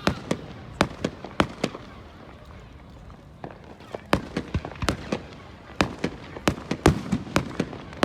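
Fireworks going off in an irregular series of sharp bangs and pops, with a brief lull about two to three seconds in before the bangs pick up again.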